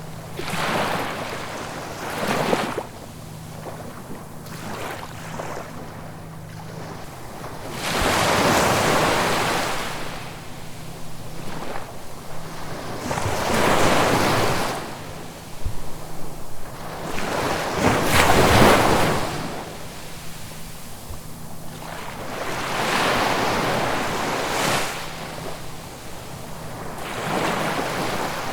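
Sea waves breaking, the surf swelling and fading about six times, roughly every four to five seconds; the loudest wave comes about two-thirds of the way through.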